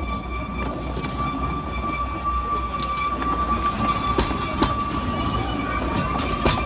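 Diesel-hauled Ikawa Line train pulling out of the station, a low engine rumble under wheel clicks over the rail joints that come faster and louder from about halfway through. A steady high-pitched tone sounds throughout.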